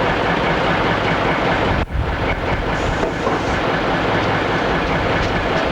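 A diesel train running on the line: a steady low engine drone over the noise of wheels on rails. The sound breaks off sharply for a moment about two seconds in.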